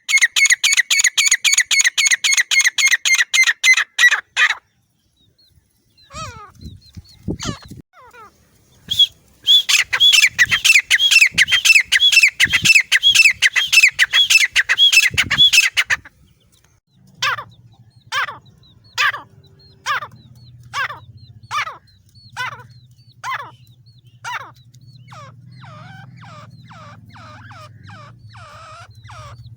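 Female teetar (grey francolin) calling in shrill repeated notes. A fast series of about four notes a second stops after about four seconds. A dense run of rising-and-falling notes follows from about nine to sixteen seconds, then slower calls spaced about a second apart, with a low steady hum underneath from about halfway.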